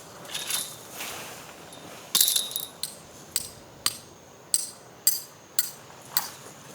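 A series of sharp clicks or clinks, about two a second, starting about two seconds in.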